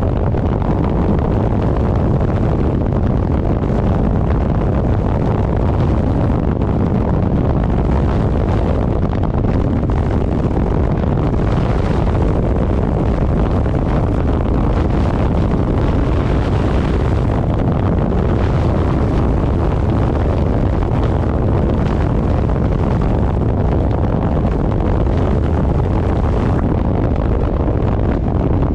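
Steady, loud wind rush on the microphone of a rider going at speed on a 1000cc motorcycle, with the bike's running mixed into it. There are no sudden changes.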